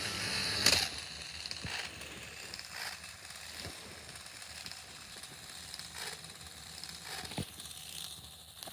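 Battery-powered toy train engines running, with a faint steady whir of small motors and plastic gears and a few sharp clicks and knocks, as two engines strain against each other in a strength contest.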